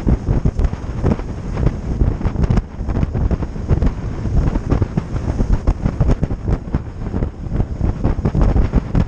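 Heavy wind buffeting the microphone on a moving boat, a loud rumbling, gusty noise with irregular thumps, over the noise of the boat running through the water.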